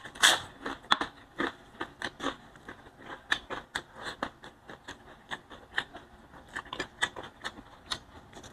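Close-up chewing of a bite of fried dried fish (daing na biya) with rice: a run of irregular, sharp mouth clicks and crunches, a few a second, loudest just after the bite at the start.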